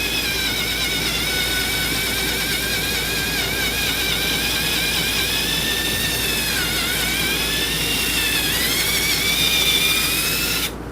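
Electric drill with a 5/16-inch brad-point bit drilling a hole: a steady high motor whine whose pitch sags twice under load in the second half, then stops shortly before the end.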